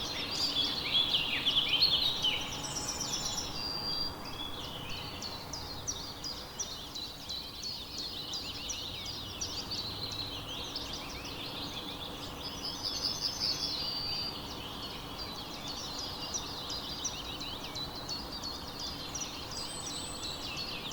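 A chorus of many songbirds chirping and trilling at once, with quick high notes overlapping throughout over a faint steady background hiss.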